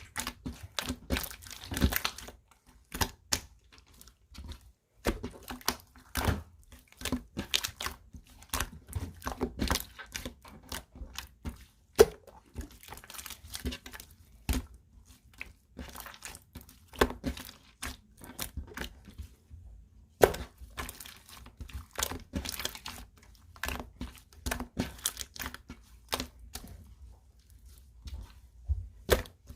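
Clear slime being squeezed, folded and stretched by hand, giving irregular sticky crackles and small pops, with two sharper pops about twelve and twenty seconds in.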